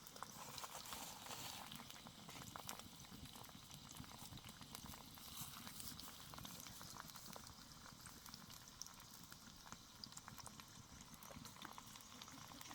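Faint, steady bubbling and crackling of food cooking, with many small scattered ticks.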